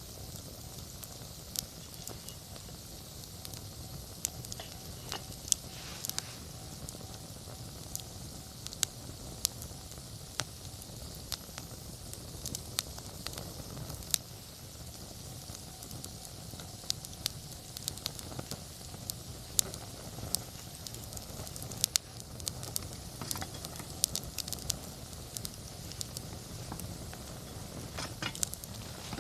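Wood campfire burning, with a steady soft hiss and frequent irregular crackles and sharp pops.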